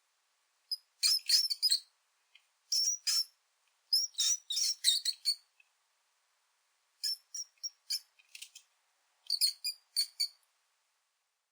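Mouse squeak sound effects: short, high-pitched squeaks in quick clusters of three to five, repeated about every second or two, with dead silence between the clusters.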